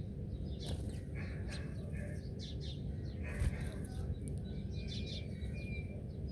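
Several wild birds chirping in short, scattered calls, with a brief high whistle near the end, over a steady low background rumble. A single knock about three and a half seconds in.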